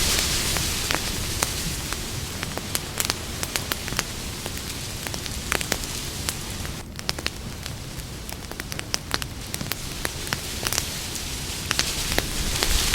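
Campfire crackling: irregular sharp pops and snaps of burning wood over a steady hiss of the flames.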